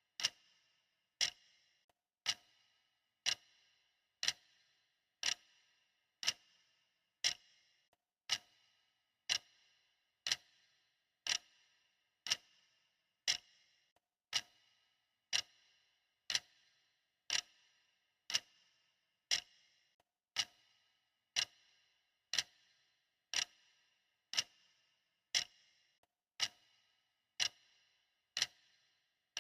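Clock ticking steadily, about one tick a second, each tick a sharp click with a brief ring. Alternate ticks differ slightly in strength, giving a tick-tock.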